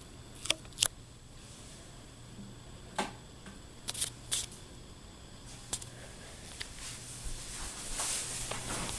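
Heritage Lancaster ceiling fan running with a faint, steady low motor hum, broken by about half a dozen sharp clicks in the first six seconds. A soft hiss builds near the end.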